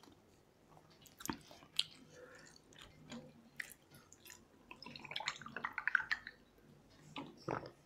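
Eating sounds from people eating rice and fish curry by hand from steel plates: chewing and lip smacks with scattered short clicks, and a denser spell of wet, squishy sound about five to six seconds in.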